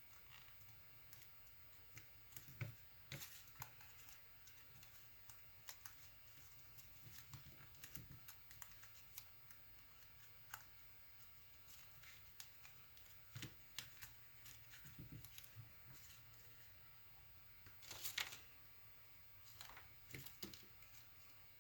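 Faint sounds of paper being folded and creased by hand: scattered small crinkles and taps, with a louder rustle about eighteen seconds in.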